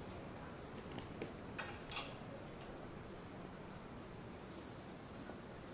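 Forest ambience with a steady background hiss and a few soft taps in the first two seconds, then, from about four seconds in, a bird calling a quick series of high chirps, about three or four a second.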